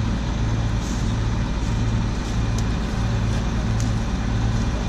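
Combine harvester running steadily at close range, a deep, even drone with a regular low pulse a little under twice a second.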